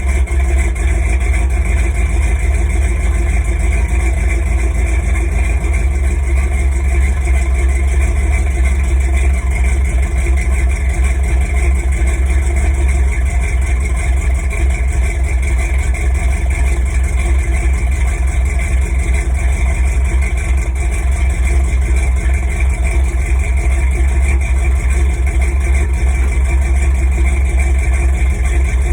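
1983 Ford F-150's 351 Windsor V8 idling steadily on a cold engine, a deep even run with no revving.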